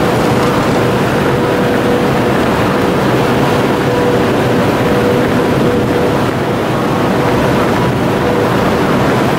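Steady noise with a constant mid-pitched hum from a CRH high-speed train standing at the platform.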